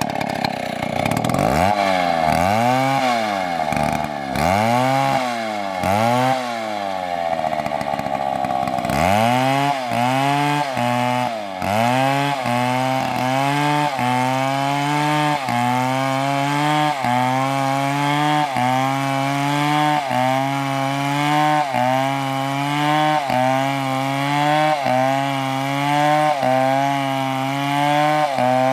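Stihl MS720 chainsaw cutting into a big trunk at full throttle, its engine note repeatedly dropping as the chain bites and recovering. The dips come about every two seconds at first, then settle into a regular rhythm of about one a second.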